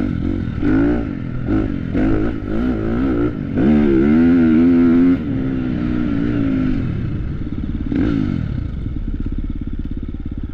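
Dirt bike engine revving up and down through a series of short throttle bursts, pulling hardest for about a second and a half near the middle, then settling to a lower steady run.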